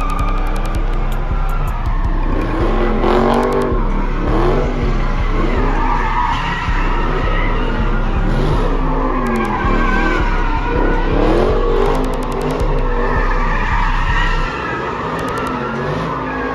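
Cars doing burnouts and donuts: engines rev up and down over and over while tires squeal on the pavement, with a few short bursts of sharp crackling.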